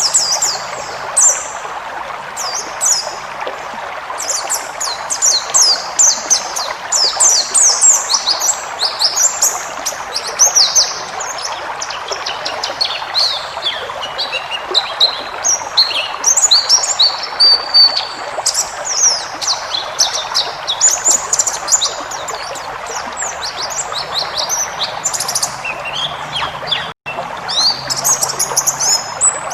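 Wild white-eye (pleci) singing a long, varied song of rapid, high twittering chirps, many sliding quickly downward, over a steady background hiss. The sound cuts out for an instant near the end.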